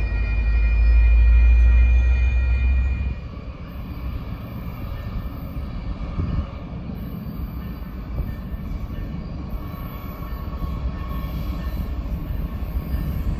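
Amtrak passenger train approaching a grade crossing: a loud, low diesel locomotive rumble, with the crossing bell's steady high tone over it for the first couple of seconds. About three seconds in, the sound cuts abruptly to a quieter, steady rumble of a distant train running across a steel trestle.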